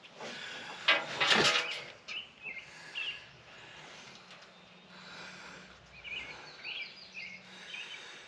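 A brief loud clatter about a second in, then small birds chirping several times in short calls over a faint steady background hum.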